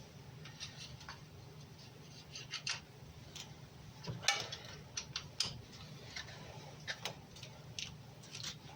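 Irregular small metallic clicks and taps of hand tools and parts being handled on the engine's timing-chain drive, with a faint steady low hum underneath.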